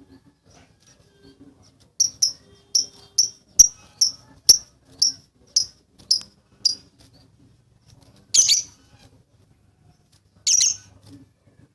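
Lovebird calling: a run of about eleven short, sharp, high chirps at roughly two a second, then two longer harsh screeches a couple of seconds apart.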